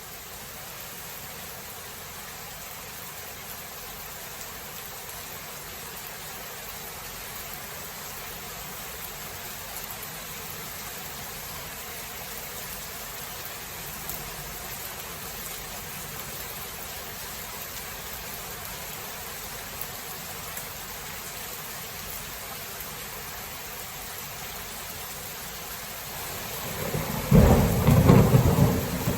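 Steady rain hiss, then near the end a loud rumble of thunder that swells up suddenly and keeps rolling.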